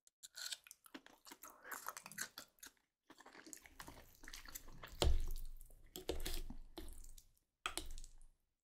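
Close-miked chewing and mouth sounds of a person eating, coming in several stretches with short breaks. The loudest moment is just after halfway.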